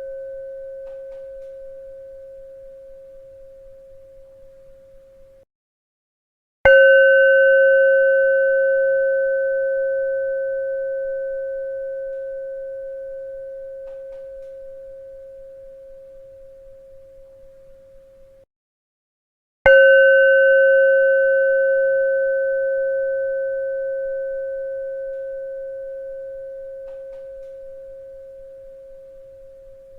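A bell is struck twice, about thirteen seconds apart. Each strike rings a clear mid-pitched tone with fainter higher overtones that slowly fades, then cuts off abruptly about a second before the next strike. At the start, the ring of an earlier strike is fading out.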